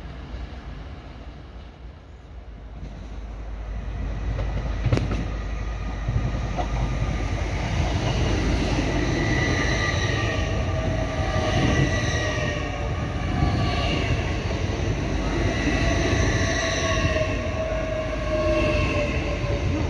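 LNER Class 800 Azuma multiple unit running alongside the platform close by: a steady rumble of wheels on rail with a faint whine. The whine sinks slightly in pitch in the second half. A single sharp clank comes about five seconds in, as the sound builds.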